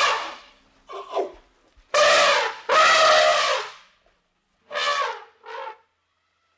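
A large animal calling loudly several times in a row, each call a drawn-out, horn-like tone lasting up to about a second, with short gaps between calls.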